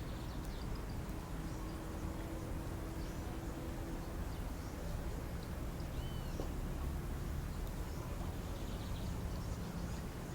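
Steady low background rumble with a few faint bird chirps, one short rising-and-falling chirp about six seconds in.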